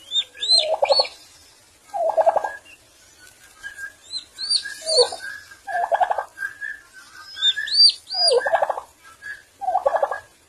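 Turkey gobbling: about six rattling gobbles, one every second or two, with short clusters of high, arched chirps in between.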